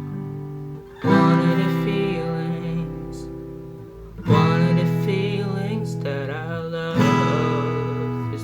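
Acoustic guitar strumming single chords, three in all, each left to ring out and fade before the next.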